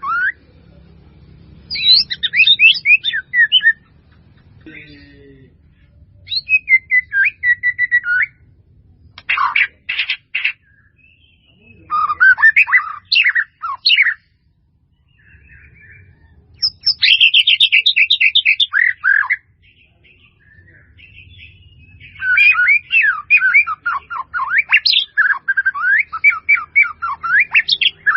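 A bird chirping and singing loudly and close by. It gives phrases of rapid, varied, warbling notes, each lasting one to three seconds, with short pauses between them.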